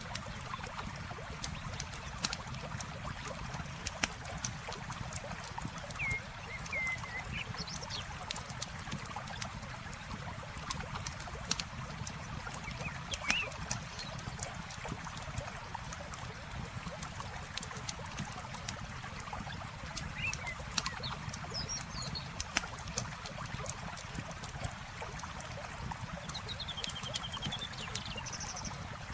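Campfire crackling with many sharp pops of burning wood, over a steady trickle of flowing water. A few short bird chirps come and go, with a falling trill near the end.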